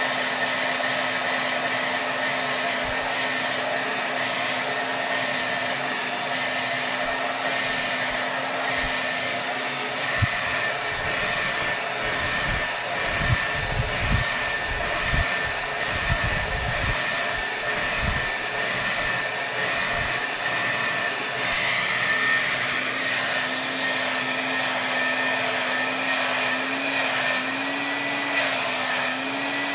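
Hair dryer blowing at full power, a steady rush of air with a whine from its motor. The low hum of the motor fades out about a third of the way in and comes back, wavering, after about 22 seconds, with a few soft low thumps in between.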